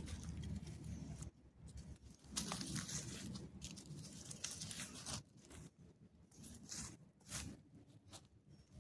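Dry leaves and twigs crunching and rustling in irregular bursts, as on a forest floor underfoot or handled.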